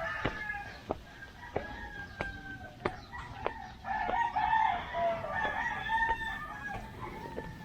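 Roosters crowing: several long, drawn-out calls overlapping one another, with scattered sharp taps.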